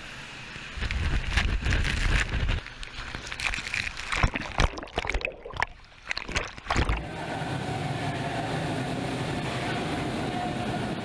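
Water sloshing and splashing, with irregular knocks and a low rumble, in a survival-training pool during a simulated crash landing. About seven seconds in it gives way to a steady rushing noise with a faint hum.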